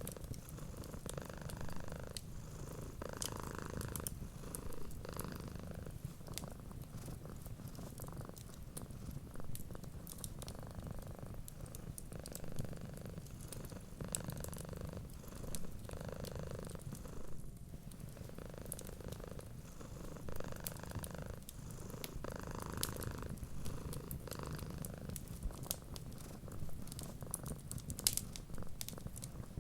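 Domestic cat purring steadily, the purr swelling and fading with each breath. Scattered small crackles of a wood fire sound over it.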